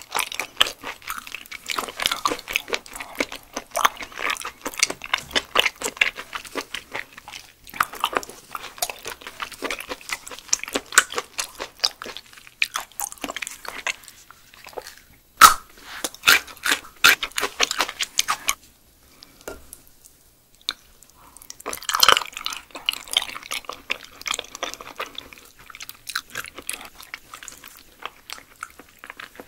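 Close-miked chewing of raw yellow stingray, with quick wet smacking and squishing mouth clicks. A sharp louder click comes about fifteen seconds in, and the chewing nearly stops for a couple of seconds around twenty seconds before resuming.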